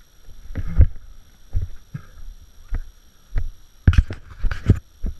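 Footsteps on rock and mud: irregular low thuds roughly every half second to second, with a louder cluster of sharp knocks and scuffs about four seconds in.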